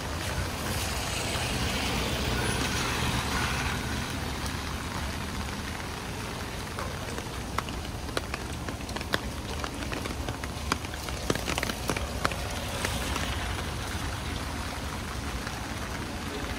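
Rain on a wet street over a low, steady traffic rumble. The hiss swells louder in the first few seconds and again near the end, and a run of sharp drips ticks through the middle.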